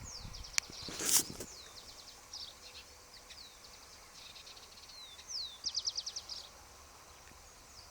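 Wild birds calling: short high chirps and descending whistles, with a quick run of about eight rapid notes around six seconds in. A sharp click and a short noisy burst about a second in are the loudest sounds.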